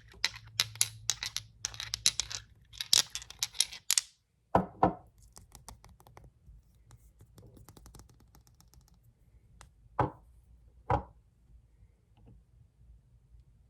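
Fingernails tapping and scratching fast on glass nail polish bottles, a dense run of clicks for the first few seconds. After a brief gap come a heavier knock, faint quick tapping, and then two separate knocks about a second apart.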